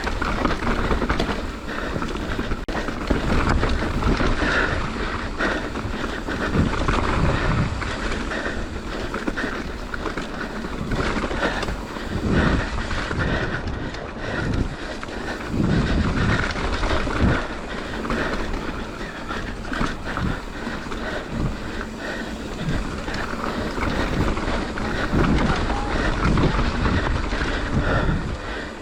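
Mountain bike descending a dirt trail: wind buffets the action camera's microphone while the tyres and frame knock and rattle over bumps in irregular thumps.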